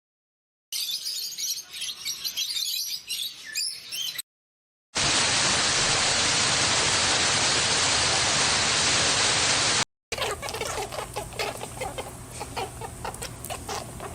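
Three short animal-sound clips, separated by brief silences: high bird chirping, then about five seconds of a steady even hiss, then rapid clucking of chickens.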